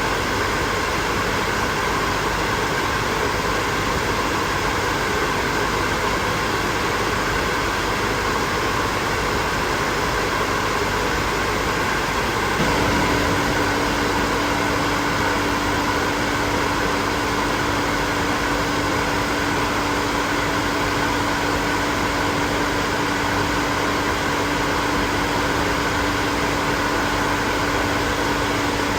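Hair dryer running steadily, blowing air with an even whoosh and a faint whine. About halfway through, a steady low hum comes in and stays.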